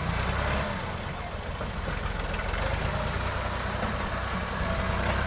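New Holland Ghazi tractor's diesel engine running with a steady low rumble.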